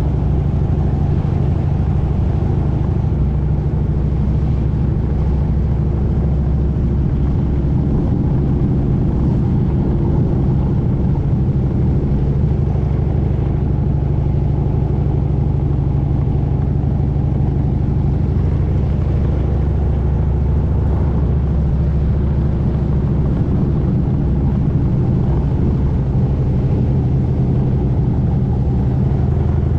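Motorcycle engine running steadily while riding along at an even speed, with a low rumble and no change in revs.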